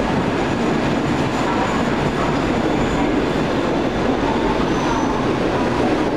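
Train running at a steady level, with faint high squealing tones now and then.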